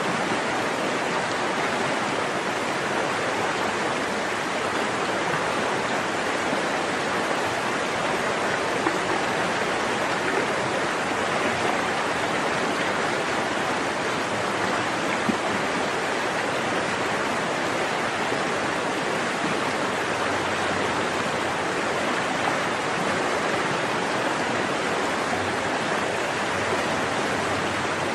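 Forest stream water flowing steadily, a continuous even rushing.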